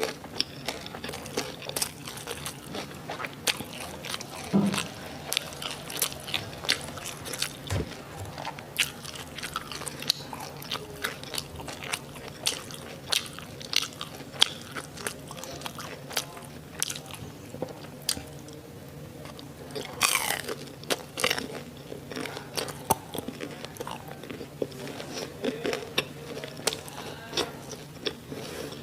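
Close-miked biting and chewing of crispy fried Korean sausages and onions, with a steady run of crunching clicks and a longer, louder crunch about twenty seconds in.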